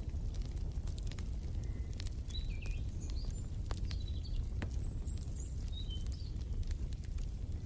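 Wood fire crackling with scattered sharp pops over a steady low rumble, with short high bird chirps from about two seconds in until near the end.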